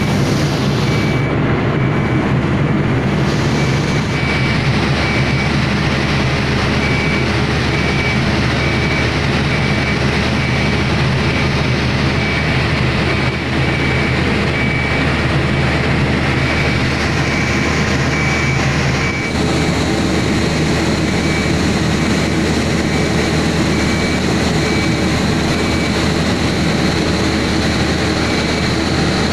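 Diesel engine of a heavy ship-launching machine running steadily under load, with a high warning beep repeating at an even pace. A higher whine joins about two-thirds of the way in.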